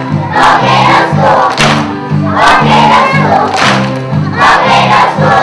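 A group of young children singing loudly together over an instrumental accompaniment of repeated low notes.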